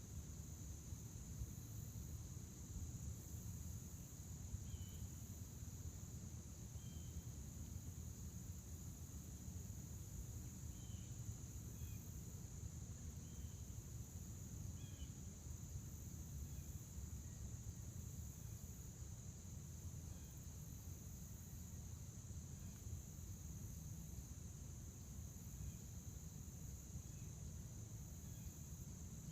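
A steady chorus of crickets trilling, one continuous high-pitched drone, with a few short bird chirps scattered through it and a low rumble underneath.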